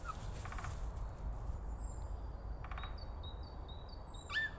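Woodpecker drumming on wood in two short rapid bursts, among thin high calls of small birds. A dog starts whining near the end.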